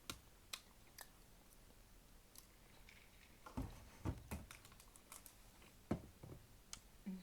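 A person chewing food close to the microphone: scattered soft mouth clicks and smacks, with a few louder low thuds about halfway through.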